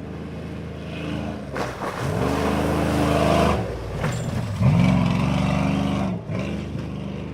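Off-road mud truck's engine revving hard, its pitch climbing and holding in three bursts, the second the loudest.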